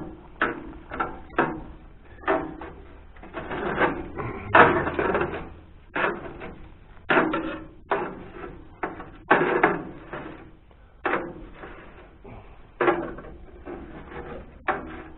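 Irregular clatter, knocks and scrapes with rustling in between, from hands and tools working at a tractor's radiator grille and shutters to pull out packed bird and mouse nest material.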